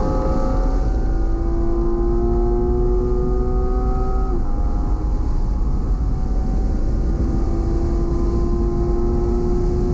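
Porsche engine heard from inside the cabin under hard acceleration. Its pitch climbs steadily, drops once with an upshift about four and a half seconds in, then climbs again, over a steady low road and wind rumble.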